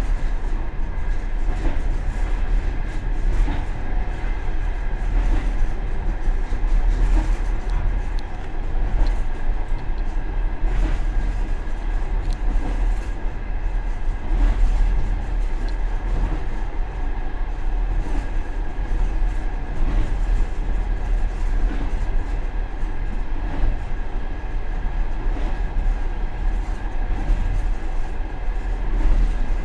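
Passenger train car running at speed, heard from its rear vestibule: a steady rumble of wheels on rails, with wheel clicks over rail joints every second or two.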